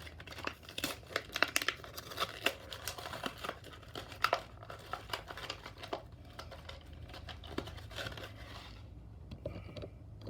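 Plastic and cardboard packaging of a diecast toy car crinkling and tearing as it is opened, a dense run of small crackles and snaps that dies down near the end.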